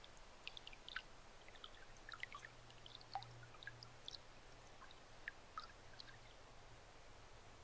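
Near silence: faint, irregular soft ticks and crackles over a low steady hum.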